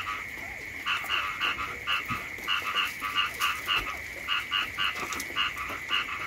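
Frogs croaking in a chorus, short calls repeating about three to four times a second in runs, over a continuous high-pitched trill.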